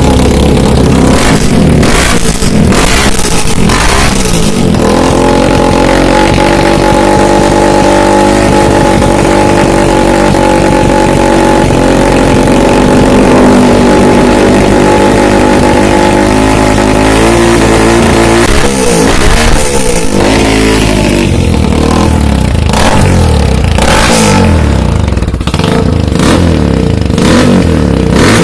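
Yamaha Scorpio motorcycle's single-cylinder engine running through a gutted (bobok) exhaust muffler: revved in quick blips, held at steady revs for a long stretch, then revved up and down again in the last several seconds.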